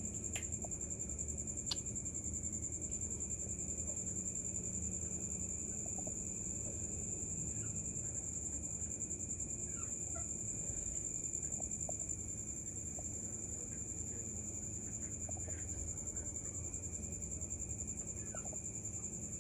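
Short scattered bird chirps every second or two over a steady high-pitched whine and a low background rumble.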